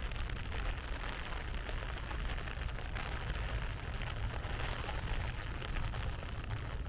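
Heavy rain falling steadily: a dense hiss of many small drop hits over a low rumble.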